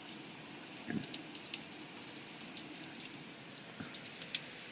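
Heavy hurricane rain falling steadily, with scattered louder drips and splashes; the strongest comes about a second in.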